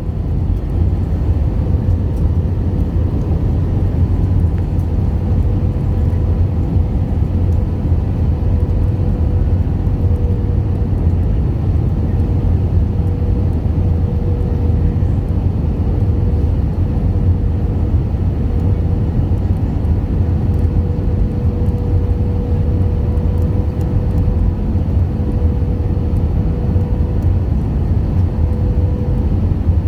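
Airliner cabin noise in flight: a steady low rumble of engines and airflow with a faint steady whine running through it.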